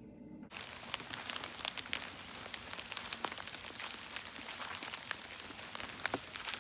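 Rain falling on leaves: a steady hiss of rain with many sharp, irregular drop ticks, beginning abruptly about half a second in after a faint low hum.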